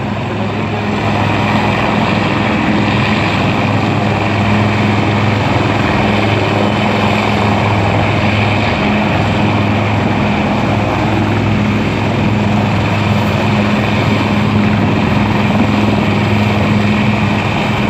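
Helicopter's engine and rotor running steadily: a loud, even noise with a constant low hum underneath.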